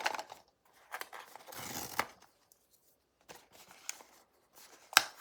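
Blind box packaging being handled and opened: crinkling and tearing, a quiet pause in the middle, then scattered ticks and a sharp click about five seconds in.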